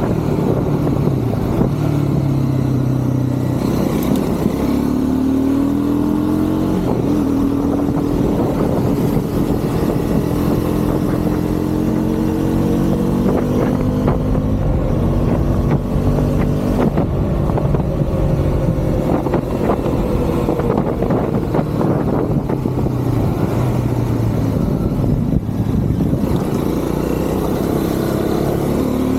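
Triumph Scrambler 400 X's single-cylinder engine pulling along in city riding, its note climbing slowly through the first half, falling back about two-thirds of the way in, and rising again near the end.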